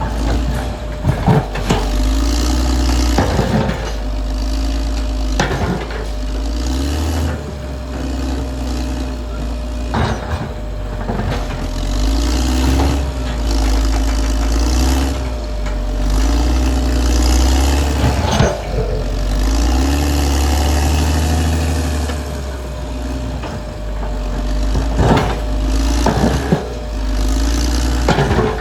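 Caterpillar D6R XL bulldozer's diesel engine working, its pitch swelling and easing every couple of seconds as the load changes, with repeated sharp clanks.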